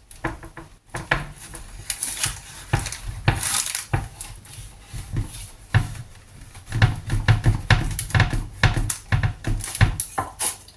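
A knife cutting through a slab of chilled oat-and-nut bars: repeated short knocks and clicks, with a quick run of heavier thuds about seven seconds in.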